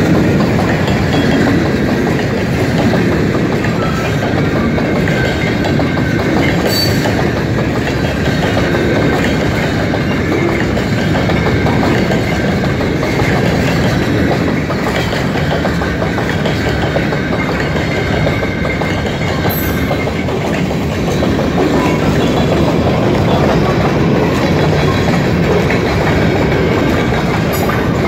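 Loaded freight train of covered hopper cars rolling past at close range: a loud, steady rumble of steel wheels on the rails.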